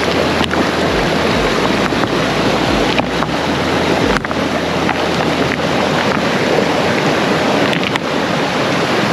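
Rushing mountain stream water, running steady and loud, swollen by rain. During the first few seconds wind rumbles on the microphone.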